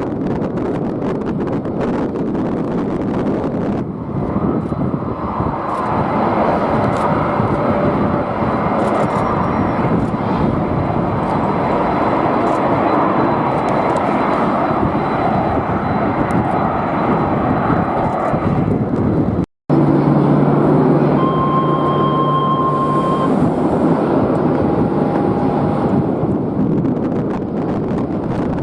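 Jet airliner engines running loud, with strong wind on the microphone. About two-thirds through the sound cuts out for an instant, then steady engine whine tones sound over the noise.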